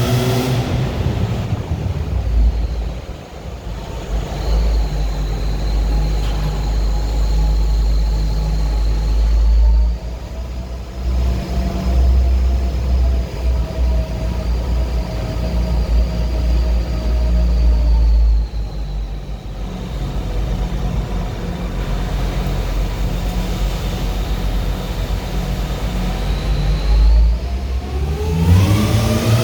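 1997 Lexus LX450's supercharged 4.5-litre inline-six pulling at light load: a steady high supercharger whine over a low exhaust rumble. Near the end it accelerates, with the exhaust note rising in pitch.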